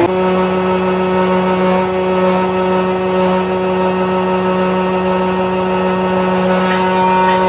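A workshop machine's motor running with a steady hum that holds one pitch.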